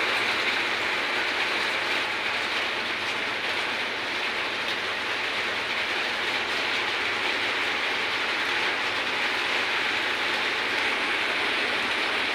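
Light rain falling, a steady, even hiss with no distinct drops or knocks standing out.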